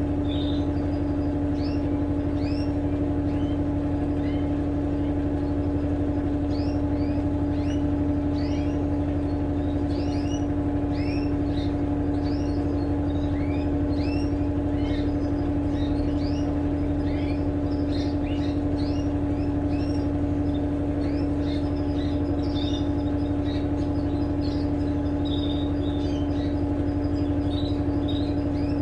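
Electrolux LTE12 washing machine running with a steady hum at one unchanging pitch. Birds chirp over it again and again, as many short rising and falling chirps.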